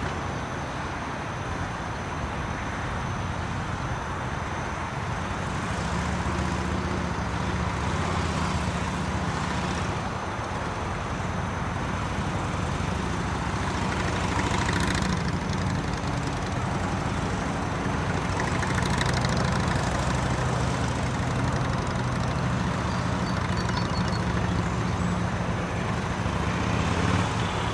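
Motorcycle engine running at low revs, its note shifting slightly as the rider works through the course. The engine comes in louder about six seconds in, over a steady outdoor hiss.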